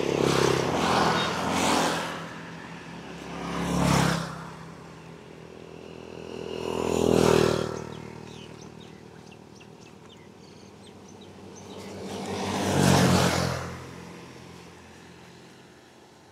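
Road traffic: motor vehicles passing one after another, about five passes, each rising and then fading away.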